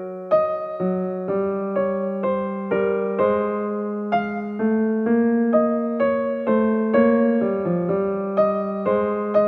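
Soft background music: a gentle electric piano playing a slow, even run of single notes, about two a second, each ringing out and fading.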